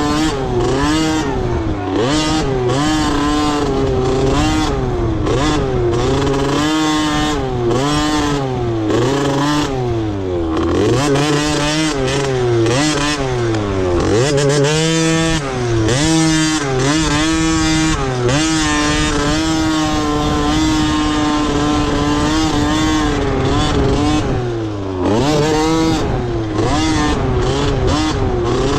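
Motocross dirt bike engines revving hard and backing off over and over, the pitch rising with each burst of throttle and dropping as it shuts off, with a steadier held note for several seconds past the middle.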